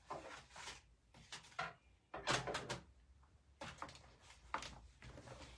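Craft paper and supplies being handled on a desk: a series of short rustles, slides and light knocks.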